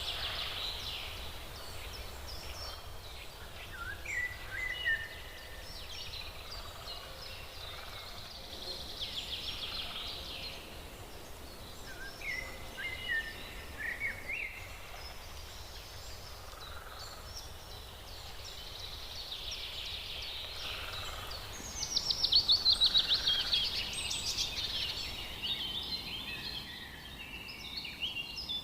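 Wild birds calling and singing: a string of chirps, short whistled calls and quick trills, with the loudest, a fast run of notes, about three quarters of the way through.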